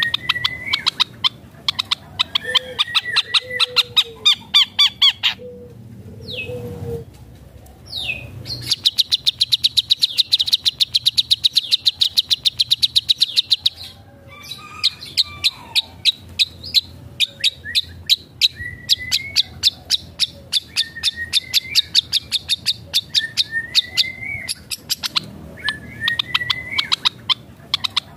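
Long-tailed shrike (cendet) in full song, mixing in mimicked notes of other birds. It delivers fast runs of sharp repeated notes, one long unbroken run near the middle, broken by short rising whistles and lower slurred notes.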